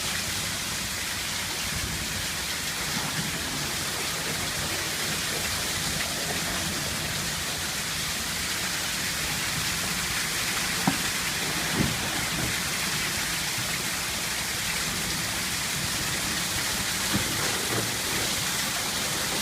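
Heavy monsoon downpour: a steady hiss of rain, with a few brief taps about eleven and twelve seconds in.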